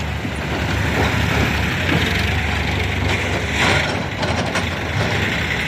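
Tractor engine running steadily with mechanical rattling. A brief louder, hissing burst comes a little past halfway.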